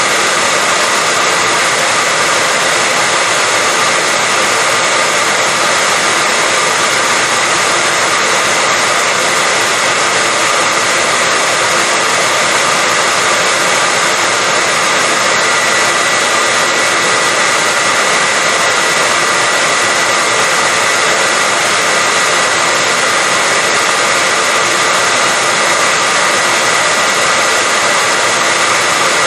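Hair dryer running steadily: an unbroken rush of blown air with a steady high whine from the motor.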